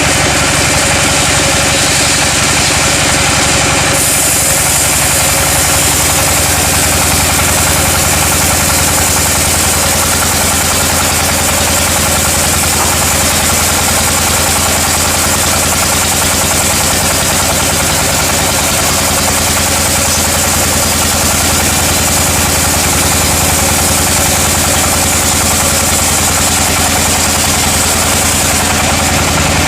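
Sawmill machinery running steadily: an engine-like hum under a constant high hiss, the hiss growing fuller about four seconds in.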